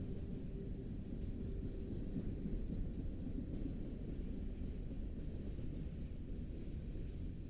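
Low, steady rumble of a train rolling along the tracks, with a faint held tone fading out in the first second or so.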